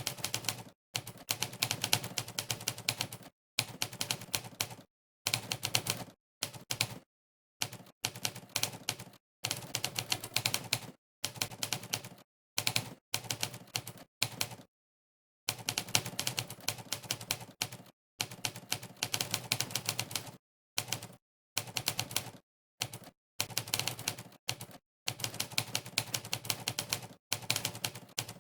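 Typewriter keystroke sound effect from the Monkeytype typing site, one key clack per keypress, coming in fast runs of rapid typing broken by short pauses, with a longer pause about fifteen seconds in.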